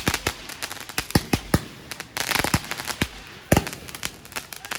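Fireworks and firecrackers going off: a string of sharp bangs at irregular intervals, with a denser patch of crackling about two seconds in and a loud bang about three and a half seconds in.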